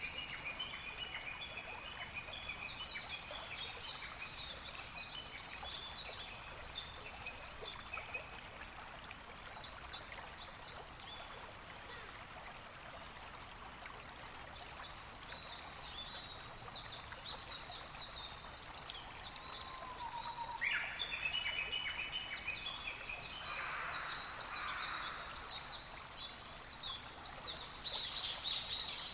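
A coastal spring soundscape of many birds calling in short, high chirps over a steady wash of water. The calls grow busier in the last third.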